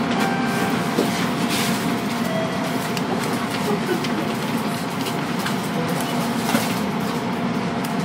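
Interior of a Kintetsu train standing in the station before departure: a steady hum of on-board equipment with a faint constant whine and a few light knocks.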